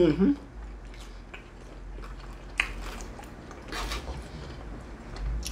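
A person chewing a mouthful of food close to the microphone, with a sharp click about two and a half seconds in and a softer one a little later.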